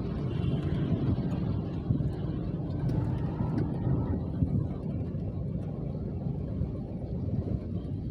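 Steady rain, heard as an even, low, dull noise with faint scattered ticks of drops.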